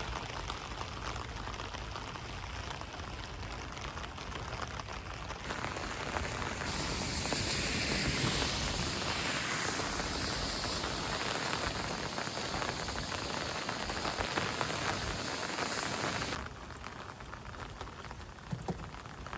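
Rain falling on a car's roof, heard from inside the car as a steady patter. It swells louder and brighter about six seconds in, then drops back suddenly to a softer patter near the end.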